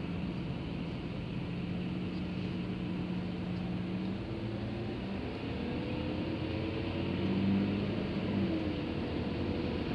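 Car running in slow traffic, heard from inside the cabin: a steady engine and road hum, with tones that slowly rise and fall.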